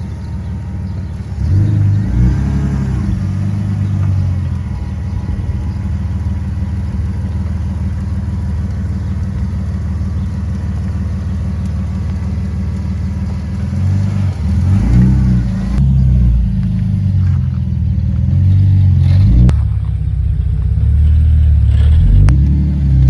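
A car engine running and revving, rising in pitch about two seconds in and again past the middle, with a few abrupt cuts between shots near the end.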